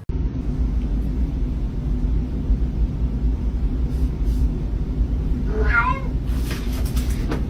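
A cat gives a single meow about six seconds in, over a steady low rumble.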